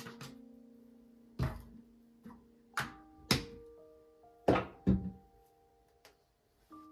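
Slow, sparse struck notes: about seven sharp knocks, each leaving a ringing tone of a different pitch that holds and fades, with the loudest pair about two thirds of the way in.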